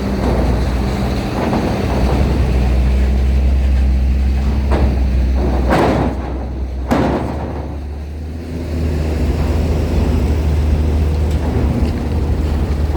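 Low steady rumble of heavy vehicle engines moving through the ferry loading area, with a few sharp knocks about five to seven seconds in, and the rumble easing off briefly just after them.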